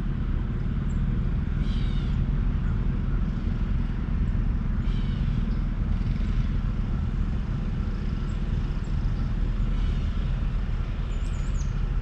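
Outdoor ambience: a steady low rumble, with short bird chirps about four times.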